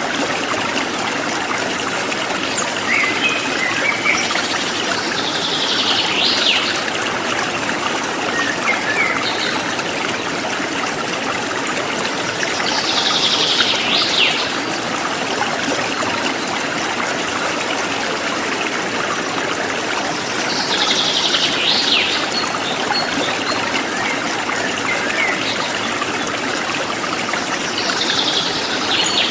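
Forest stream flowing steadily, with a songbird repeating a short downward-sliding phrase about every seven or eight seconds, four times, and a few fainter chirps in between.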